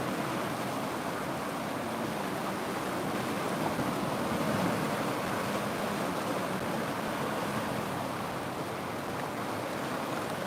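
River water flowing, a steady rushing without breaks.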